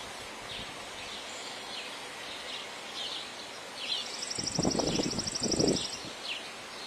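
Small birds chirping outdoors: short falling chirps repeat every half second or so. A fast buzzing trill runs for about two seconds past the middle, together with a brief muffled rustle.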